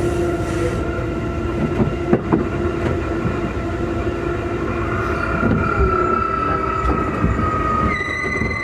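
Interior running sound of a Keikyu 2000 series electric train car, with the whine of its traction motors heard as several steady tones over the wheel and running noise. The uploader thinks this car's motors are Mitsubishi-made, giving it an unusual hum. About two seconds in, wheels click over rail joints. In the second half the main tone slowly falls in pitch as the train slows.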